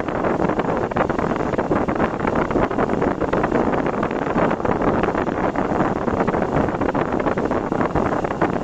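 Steady rushing of wind on the microphone mixed with the running noise of a vehicle driving on the road.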